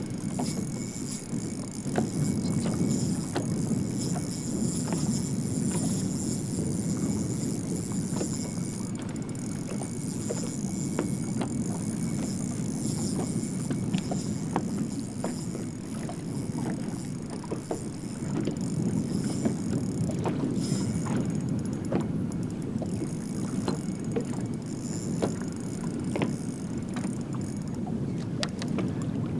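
Wind rushing over the microphone and water sloshing against a bass boat's hull, with scattered light clicks and knocks throughout.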